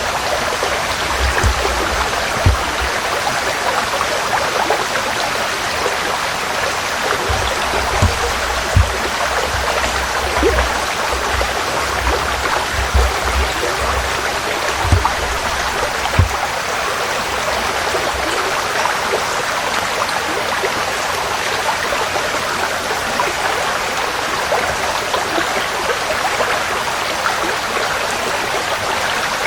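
Forest stream flowing in a steady rush of water, with short low thuds now and then during the first half.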